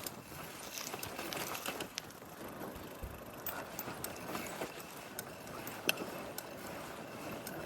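Bicycle in motion: irregular ticking and rattling from the bike over a steady background hiss, with one sharper click near the end.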